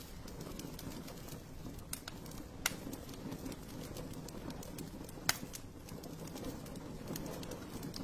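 Wood fire crackling in a fireplace: a steady low rustle of burning with scattered small ticks and two sharp, loud pops, about a third and two-thirds of the way through.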